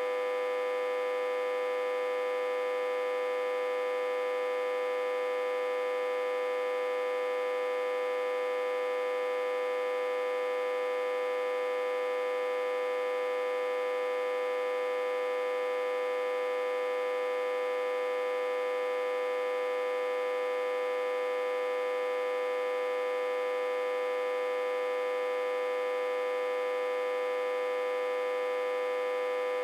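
Autotransformer, reverse-connected to a step-down transformer and fed about 60–80 V, humming steadily with one strong, fairly high tone and many overtones above it.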